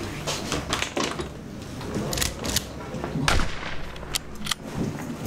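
A string of sharp knocks and clicks, with the loudest about three seconds in. They come from someone handling clothes and gear, stepping across a room and opening a door.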